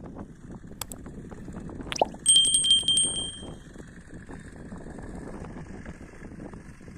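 A small bell rung in a quick trill of strikes about two seconds in, ringing on for about a second before fading, just after a short falling sweep in pitch; steady low background noise throughout.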